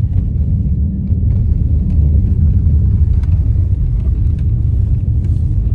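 Steady low road rumble heard inside a car cabin as an all-wheel-drive car drives at about 40 mph over a snow-covered road, with a few faint ticks.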